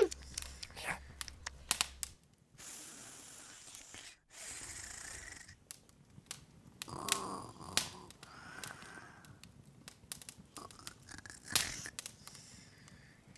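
Open wood fire crackling, with irregular sharp pops and snaps over a soft hiss.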